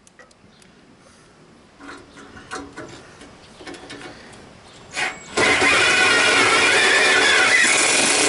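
Light clicks and knocks of parts being handled, then a cordless impact driver gives a short burst about five seconds in and runs steadily and loudly, driving a screw into the hood.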